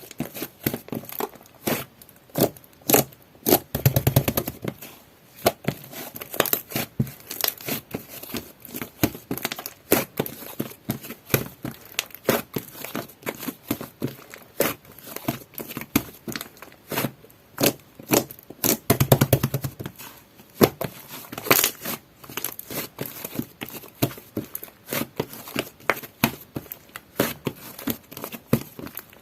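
Soft butter slime being pressed, poked and pulled by hand: an irregular run of small sticky crackles and clicks, with two stretches of dense, rapid crackling, about four seconds in and again near nineteen seconds.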